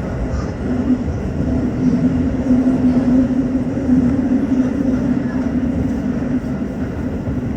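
Tokyo Metro 15000 series electric train running underground, heard from inside the train: a continuous rumble of wheels on rails with a steady low hum that comes in about a second in and fades near the end.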